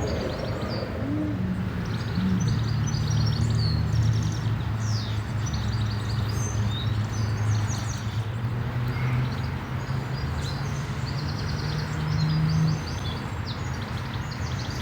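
Small songbirds chirping and trilling, over a steady low drone that starts about a second in and stops near the end.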